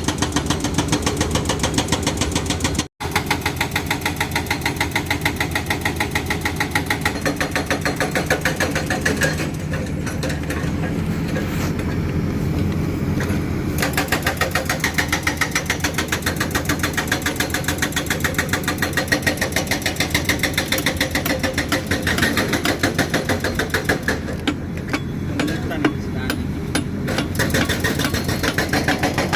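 Diesel engine of a Cat 320D2 excavator running steadily, a fast even pulsing over a low hum. It cuts out briefly about three seconds in.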